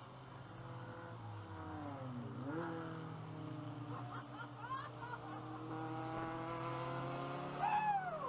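Race car engine heard from inside the cockpit. The revs drop about two seconds in, then climb steadily under acceleration. Near the end there is a brief, louder squeal whose pitch rises and then falls.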